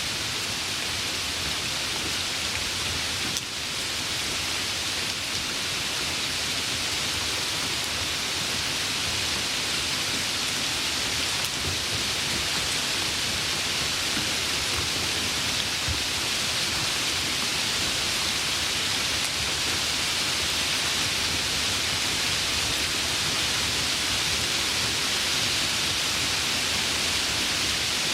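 Steady, dense rainfall: an even hiss of rain pattering on surfaces.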